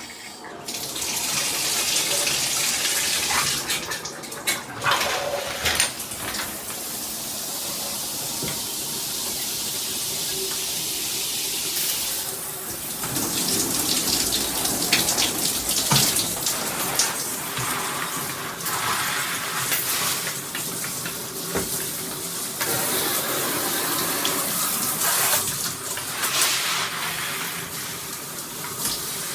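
Water spraying from a rain shower head with a handheld spray, a dense steady hiss of falling water that starts abruptly about a second in and shifts in level as the spray strikes the surfaces.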